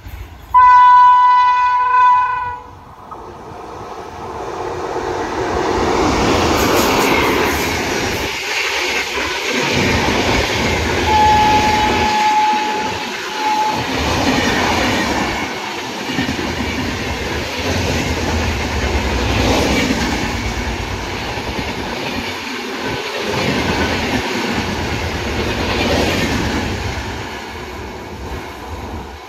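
The horn of a WAP-7 electric locomotive sounds loudly for about two seconds. Then the Sabarmati Express passes at full speed: a rising rush and rumble of the locomotive and coaches, with a rhythmic clickety-clack of wheels over rail joints as the coaches stream by. A thin steady tone is heard for a couple of seconds midway.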